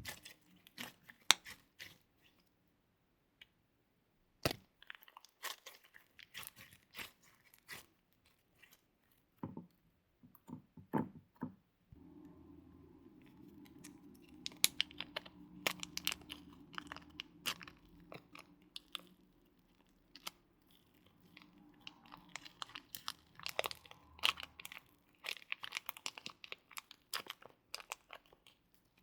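Slime being squished and worked by hand, with irregular sticky crackles and pops, denser in the second half. A low steady hum sits underneath from about twelve seconds in until a few seconds before the end.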